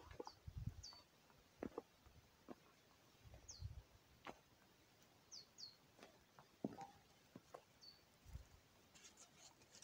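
Faint, short, high bird calls in the forest: about six quick chirps, each sliding downward in pitch, scattered through a near-silent background, with a few soft knocks and rustles.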